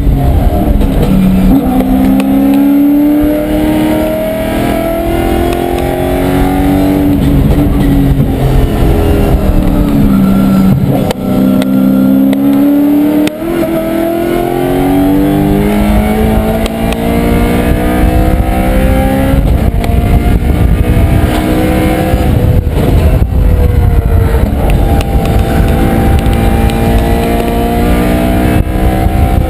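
Race car engine heard from inside its stripped, roll-caged cabin at full throttle on track, its pitch climbing several times and dropping back at each upshift or braking, then running steadier near the end.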